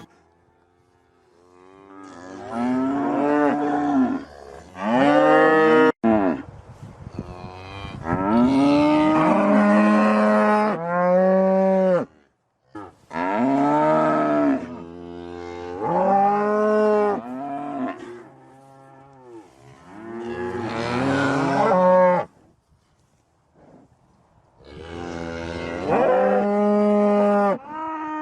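Cows mooing: a series of long, drawn-out moos, one after another with short pauses between them.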